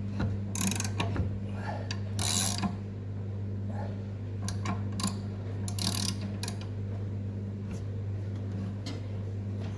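Hand tools and metal parts clinking and clicking while the blades are fitted to a Ventrac Tough Cut mower deck: scattered ratchet-like clicks and scrapes, heaviest in three short clusters, over a steady low hum.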